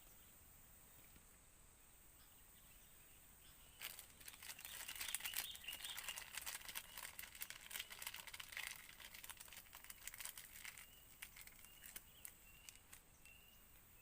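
A crisp crackling rustle, dense with small clicks, from about four seconds in until about eleven seconds, over faint, short bird chirps repeated every second or so.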